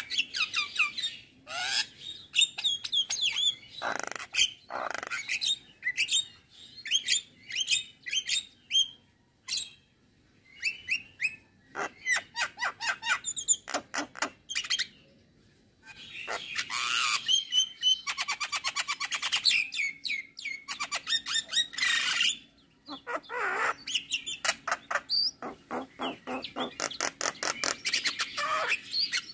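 Male Javan myna singing a long, varied song of quick chirps, whistles and harsh squawks, with fast rattling runs and a couple of brief pauses.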